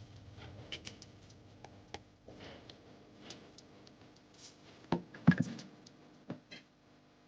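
Light clicks and taps of small parts being handled during a blender repair, with a short cluster of louder knocks about five seconds in.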